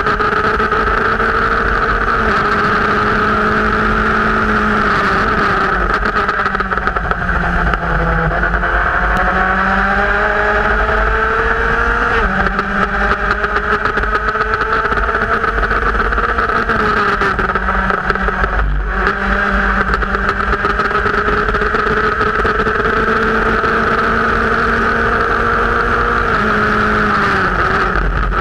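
Formula race car's engine pulling hard on track, recorded from on board, its pitch falling and climbing several times through gear changes, braking and acceleration, with heavy wind rush over it.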